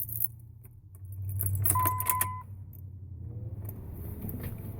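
Keys jangling and clicking, with one short electronic beep about two seconds in, over a low steady hum.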